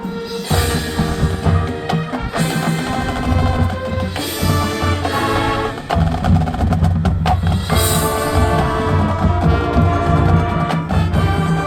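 High school marching band playing its field show: brass and percussion together, with many sharp percussion strikes over sustained low notes. The full band comes in about half a second in after a brief quieter moment.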